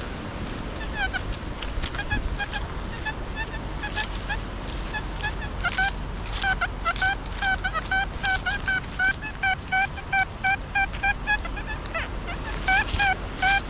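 XP Deus metal detector sounding its target tone: short, identical mid-pitched beeps that come sparsely at first and then, from about halfway, in a quick run of about three a second as the coil sweeps back and forth over a buried metal target. It is a strong signal, which the detectorist calls huge. Wind buffets the microphone underneath.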